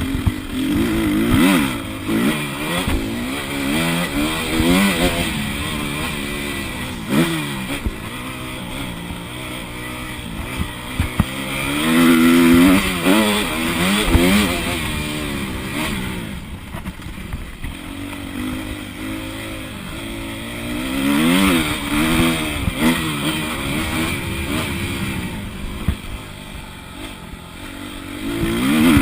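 Motocross bike engine revving hard and dropping off again and again, with its pitch climbing through each gear and falling back. Sharp knocks from the track break in now and then.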